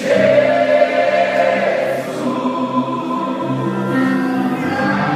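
Slow congregational worship song, many voices holding long sung notes over a steady instrumental accompaniment with shifting bass notes.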